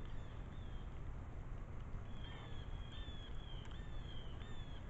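A bird calling: a quick series of short, falling chirps, about two a second, through the second half, over a steady low outdoor rumble.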